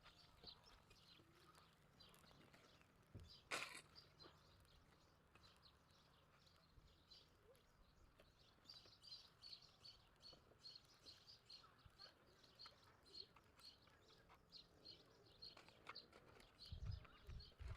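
Near silence with faint, rapid bird chirping, and a single sharp knock about three and a half seconds in.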